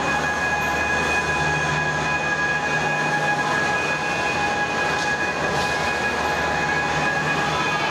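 Overhead crane lifting a Shinkansen N700A car body: a steady mechanical running noise with a low hum and several steady high tones.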